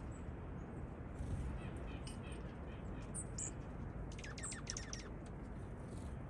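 Small songbirds chirping: a few short high chirps, then a quick dry trill of rapid notes about four seconds in, over a steady low background hum of outdoor noise.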